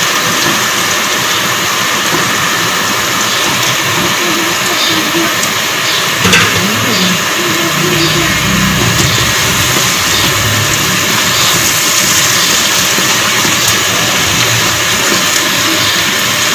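Raw chicken pieces sizzling in hot oil and fried onions in a pan as they are stirred and browned (bhuna) for biryani: a steady, loud frying hiss, with a single sharp knock about six seconds in.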